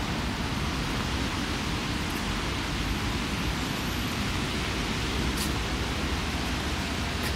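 Steady hiss of light drizzling rain, with a low rumble underneath.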